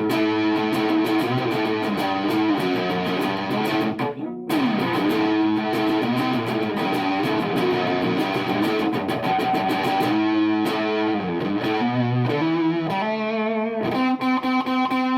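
Electric guitar played through a germanium Sola Sound Tone Bender Mk IV fuzz pedal, with the fuzz backed off a little toward a Mk 1.5/Mk II-style tone. It plays sustained fuzzed chords and riffs, with a brief break and a sliding note about four seconds in.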